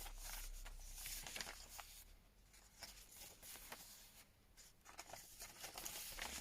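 Faint rustling of paper and card pages being handled and turned in a handmade junk journal, with a few soft taps.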